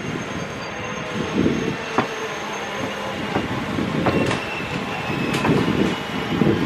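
Passenger train coach running along the track, heard from on board: a pulsing rumble of wheels with clatter and several sharp clicks as the wheels cross the rails.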